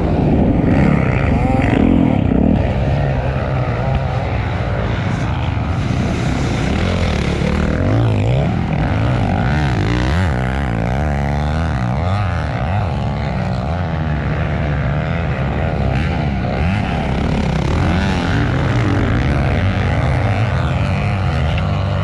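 Motocross bike engines running hard and revving up and down, their pitches rising and falling and overlapping as the bikes open and close the throttle; loudest in the first two seconds or so.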